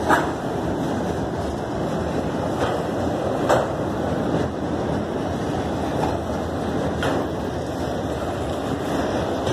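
CSX freight train of auto rack cars rolling past: a steady rumble of steel wheels on the rails, with a few irregular sharp clanks, the loudest near the start and about three and a half seconds in.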